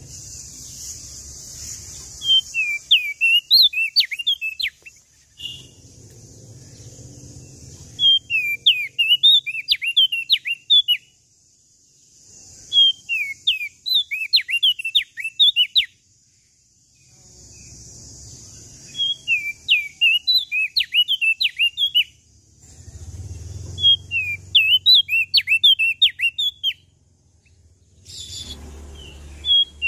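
A prenjak daun lombok singing: about five phrases of quick, sharp whistled notes sweeping up and down, each phrase lasting two to three seconds with short pauses between, over a faint steady high hiss.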